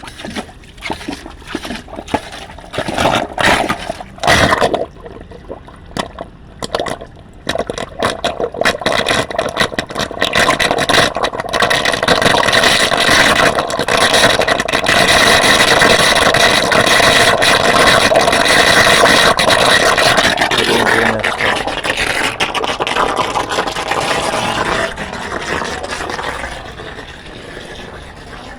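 Rainwater rushing loudly down a rooftop drain that has just been cleared, with a steady ringing tone in the rush. It follows a stretch of scraping and knocking at the drain, then eases off near the end.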